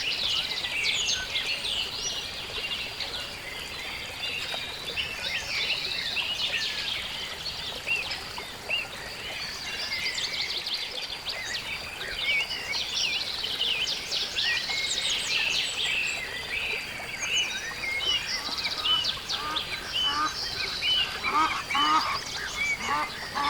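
Marsh bird chorus: many songbirds chirping and trilling densely and continuously. In the last few seconds, waterfowl join in with a run of short, repeated honking calls.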